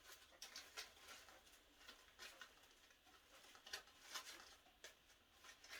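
Faint, scattered rustles and light ticks of artificial silk flowers and foliage being fluffed up by hand.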